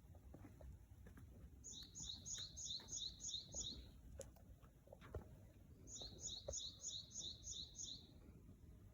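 A small songbird singing two quick runs of a repeated high two-note phrase, about seven repeats each, with a pause of a couple of seconds between the runs.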